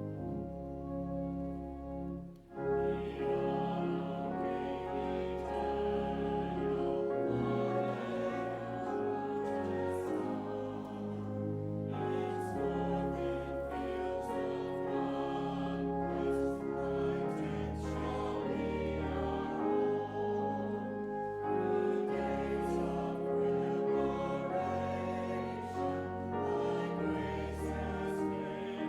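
A congregation singing a hymn with organ accompaniment. The organ plays alone briefly, pauses about two seconds in, and then the voices come in.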